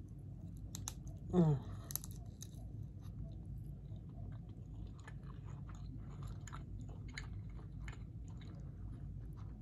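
A person biting into and chewing a seasoned shrimp, with many small clicks and crunches of chewing throughout. A short falling hum of the voice about a second and a half in.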